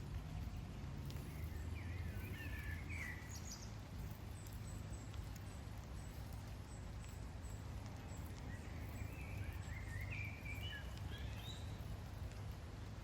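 A bird twittering in two short bursts, about two seconds in and again near the end, over a steady low outdoor rumble.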